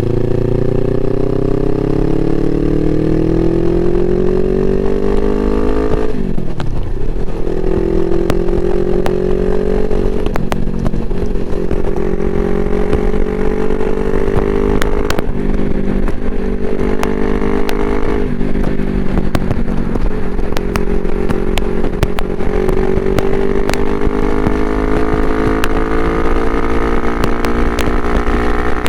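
Suzuki GS500E parallel-twin engine through a Takkoni aftermarket exhaust, revving up under way. The pitch climbs steadily, falls deeply about six seconds in, then climbs again with short dips around ten, fifteen and eighteen seconds, still rising near the end. Scattered sharp clicks run through it.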